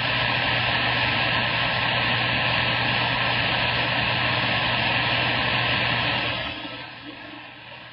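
CB radio receiver hiss and static between transmissions on the 11-metre band, a steady rushing noise with a faint hum. It drops to a lower level about six and a half seconds in.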